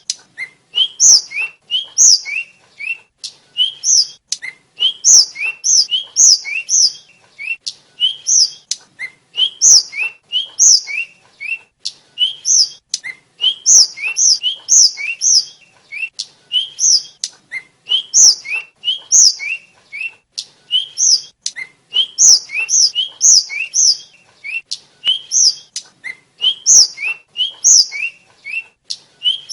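Tledekan flycatcher singing: a quick phrase of a short rising note followed by a sharp high note, repeated over and over at about one phrase a second.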